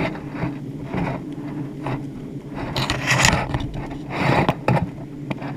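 Irregular scraping and rubbing, with two louder rasping scrapes about three and about four and a half seconds in, over a steady low hum.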